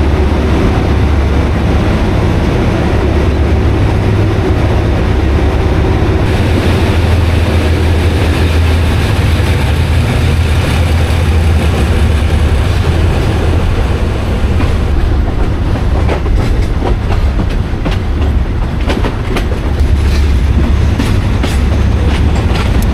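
Passenger train running along the track: a steady loud rumble with the clickety-clack of wheels over rail joints, the clicks coming more often in the second half.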